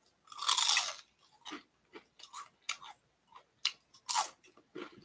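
Crispy fried chicken skin crunching as it is bitten about half a second in, then irregular crunchy chewing, with another loud crunch just after four seconds.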